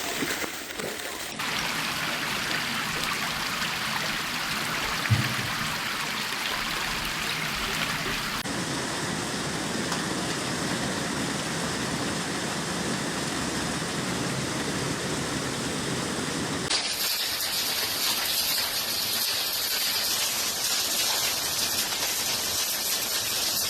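Floodwater gushing and rushing, a steady noise through several short clips cut one after another, with a single short knock about five seconds in.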